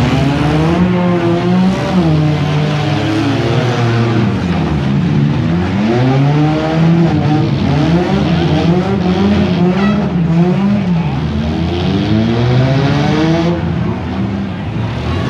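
Several demolition derby cars' engines revving up and down at once, loud and continuous.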